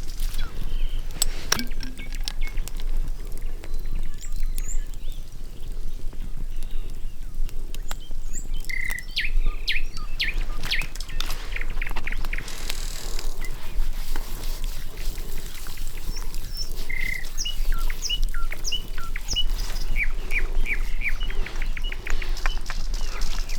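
Small birds chirping, with a quick run of repeated chirps in the last few seconds, over scattered sharp clicks and taps.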